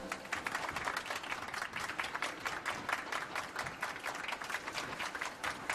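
Applause: many hands clapping in quick, irregular claps that keep going without a break.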